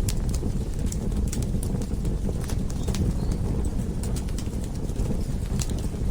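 Wood fire in a fireplace, crackling and popping at irregular moments over a steady low rumble of the flames.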